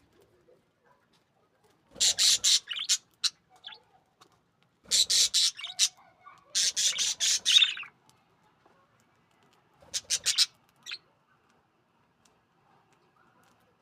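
Budgerigars giving bursts of rapid, harsh chattering chirps and squawks, four loud bouts about 2, 5, 7 and 10 seconds in.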